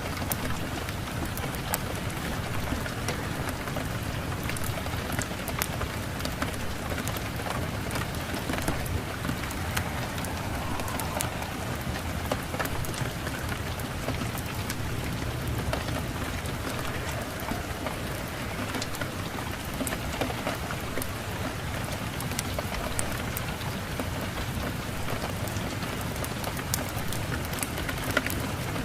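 Steady rain mixed with a crackling wood fire: an even hiss of rain with frequent short, sharp pops and ticks scattered throughout.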